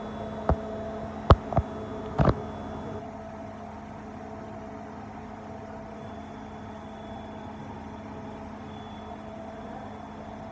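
Bosch washing machine running in its service test mode: a steady electrical hum from a running component, with several sharp clicks in the first couple of seconds.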